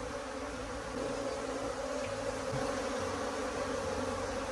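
Honeybee swarm buzzing steadily: a dense, even hum of many bees.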